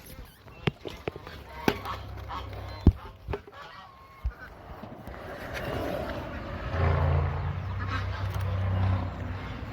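Geese honking, over a low steady hum that grows louder about two-thirds of the way through, with a few scattered clicks.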